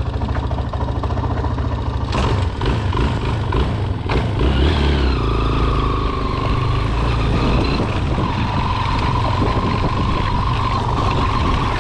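Honda NX 200 motorcycle's single-cylinder engine running steadily, with a couple of sharp knocks about two and four seconds in and a steady whine from about five seconds in.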